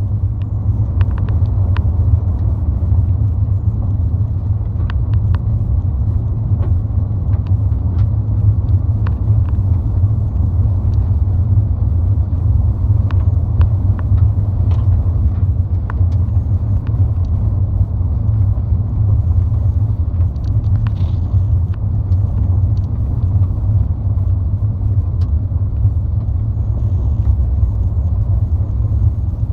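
Steady low rumble of a car driving, heard from inside the cabin, with scattered faint clicks.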